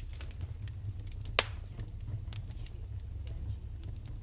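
Fireplace fire crackling: scattered sharp snaps over a steady low rumble, with one loud pop about a second and a half in.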